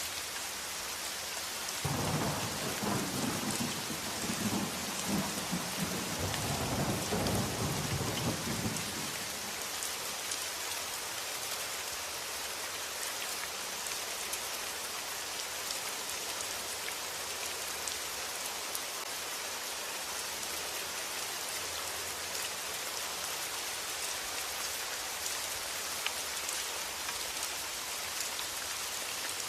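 Steady rain, with a low rumble of thunder starting about two seconds in and rolling on for about seven seconds before fading back to rain alone.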